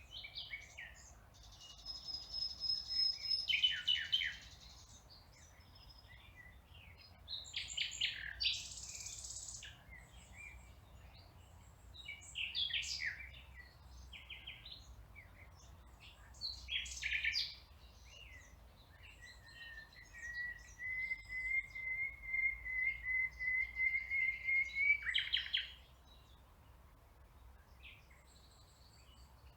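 Songbirds singing: short bursts of high chirping phrases every few seconds, then a long, slightly rising trill lasting about five seconds that ends in a quick burst of notes.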